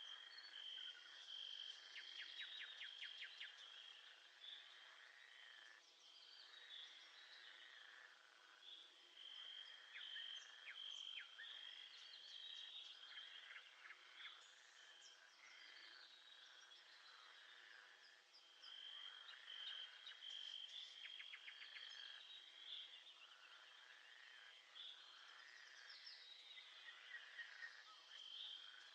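Faint nature soundscape: a high, steady insect trill that drops out for a few seconds and comes back, under many quick bird chirps and calls.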